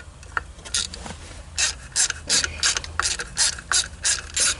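Hand ratchet worked in short back-and-forth strokes, a quick run of clicks on each stroke, about three strokes a second, loosening the screws of a distributor rotor.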